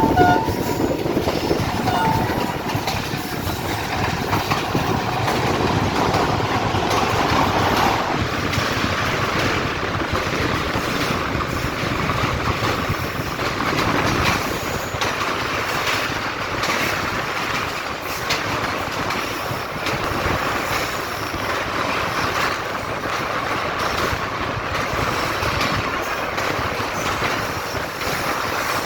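Pakistan Railways train running past, a steady noise of wheels on rails and passing cars. A high steady tone over the first eight seconds cuts off suddenly.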